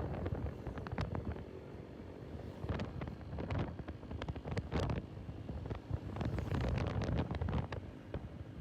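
Wind buffeting the microphone in irregular gusts over a low rumble.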